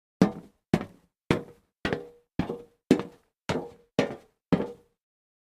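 Nine short, sharp knocks at an even pace of about two a second, stopping a little before the end.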